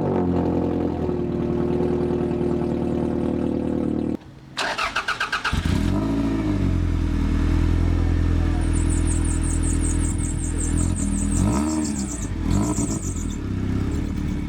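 Car engine revving up and falling back several times over a steady running drone, with a brief drop-out about four seconds in. From about nine seconds in, a fast high ticking rhythm runs over it.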